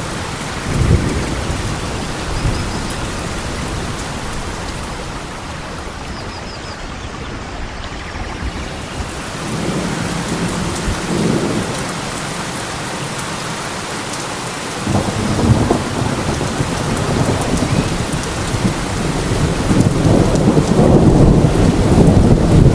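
Steady rain falling, with low rolls of thunder rumbling through it. The thunder grows louder and longer toward the end.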